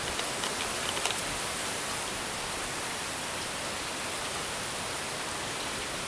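Steady hiss of hurricane rain and wind gusting through trees, with a few light ticks about a second in.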